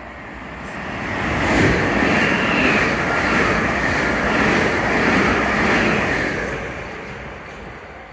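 Gatwick Express Class 387 electric multiple unit passing through the platform at speed without stopping: a rush of wheels on rail that builds over about a second and a half, holds for about five seconds with a faint whine above it, then fades away.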